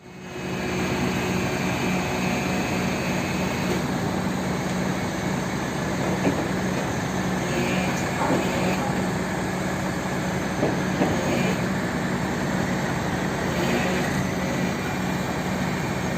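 Diesel truck engine running steadily with a constant low hum, with a few faint knocks and clanks over it.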